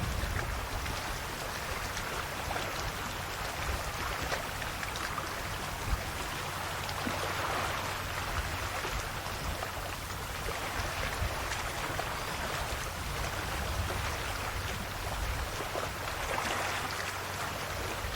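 Calm sea waves washing gently on the shore, a steady fizzing wash that swells softly twice.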